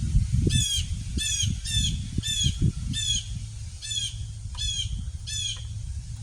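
A bird squawking over and over, about nine short harsh calls at uneven intervals, over a low uneven rumble with a few thumps.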